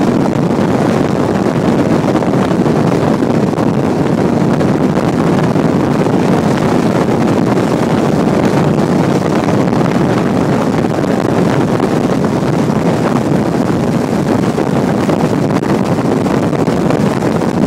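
Motorboat running steadily under way, with wind blowing across the microphone.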